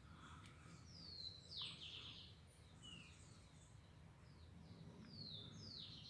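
Near silence with faint bird chirps: a handful of short, high calls that slide downward in pitch.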